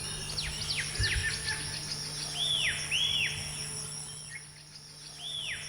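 Small birds calling outdoors: a few quick falling whistles, then two pairs of arched, down-slurred chirps, over a steady high-pitched hum.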